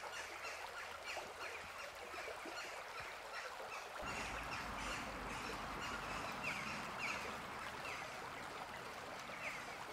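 Birds calling over and over in short, slightly falling calls, over a steady hiss. A low rumble comes in suddenly about four seconds in.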